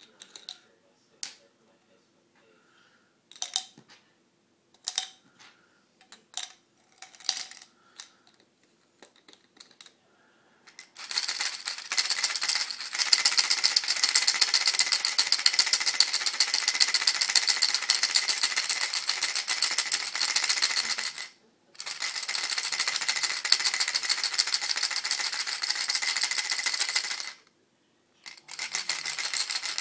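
Small screws rattling hard inside a small plastic bottle as it is shaken, a dense, fast rattle that breaks off briefly once and stops near the end before a short final shake. Before the shaking, a few separate clicks and taps.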